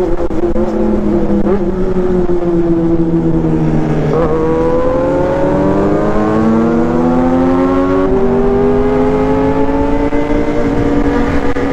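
Honda CB400 Super Four Version S's four-cylinder four-stroke engine under way with a bee-like buzz. The revs sink for about four seconds, then there is a gear change and the revs climb steadily, with another shift about eight seconds in and the revs rising again.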